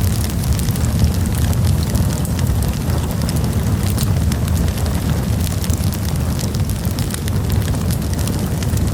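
Campfire burning, with many small sharp crackles and pops over a steady low rumble.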